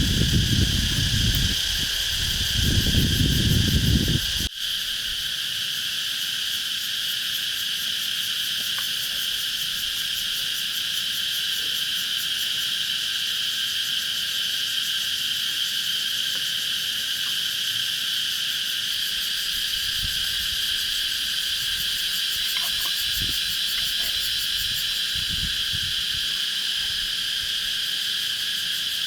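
Steady chorus of insects such as crickets: a continuous high, finely pulsing trill. For the first few seconds a low rumble lies under it and cuts off suddenly about four seconds in.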